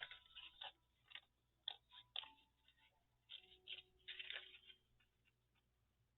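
Faint rustles and light taps of paper pieces being picked up and handled, coming in several short spells with quiet gaps between.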